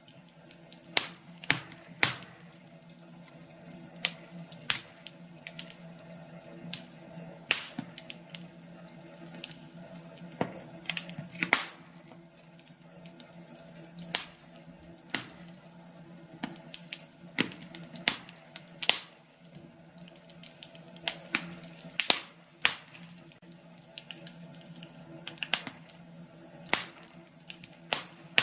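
Wood fire crackling: irregular sharp pops and snaps of burning logs, one to a few a second, over a faint steady low hum.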